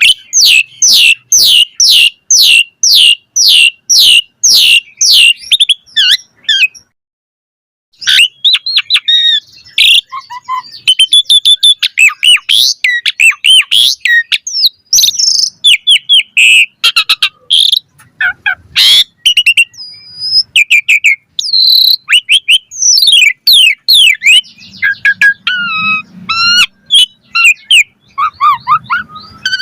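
Asian pied starling (jalak suren) singing. It opens with a fast run of repeated falling notes, about three a second for some six seconds, then breaks off briefly. It goes on with a varied jumble of whistles, chirps and harsh squawks.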